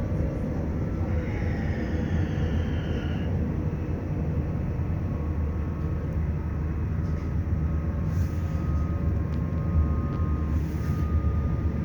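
Passenger train running, heard on board: a steady low rumble of wheels on the track. A brief rising whine comes about two seconds in, and a thin steady whine runs through the second half.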